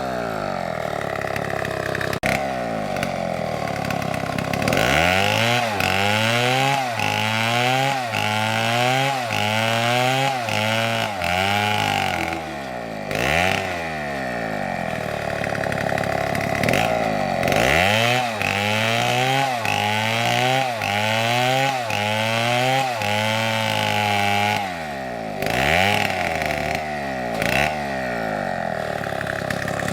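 STIHL chainsaw running under load, its engine speed repeatedly rising and falling about once a second as it cuts wood, in two long runs with steadier running between them.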